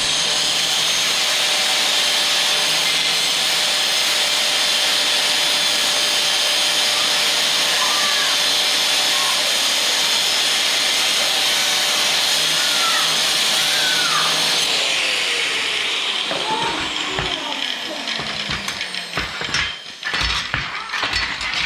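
Porter-Cable PC750AG 4.5-inch angle grinder with a cutoff wheel cutting through steel, a loud, steady hiss. About fifteen seconds in it is switched off and the wheel winds down with falling pitch, followed by a series of knocks and clatter.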